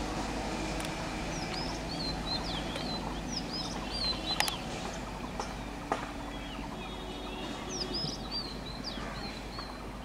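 Birds calling in quick chirps and short whistles, in two bouts, over the steady low rumble of a passenger train moving away. A few sharp clicks stand out, one about halfway through.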